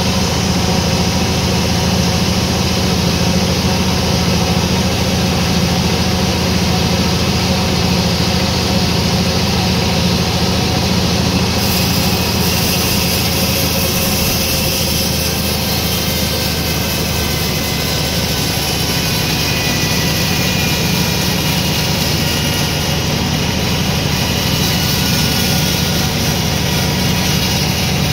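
Sawmill machinery running steadily with a loud, even hum. A higher hiss joins about twelve seconds in.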